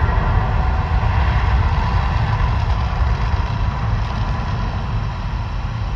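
Deep, steady rumble from the Mirage volcano show's effects, slowly fading.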